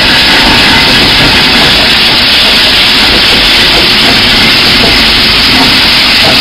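Loud, steady rushing noise of a steam excursion train running along the track.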